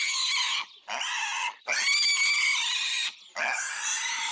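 A domestic pig squealing: several long, high, harsh squeals of about a second each, with short breaks between them.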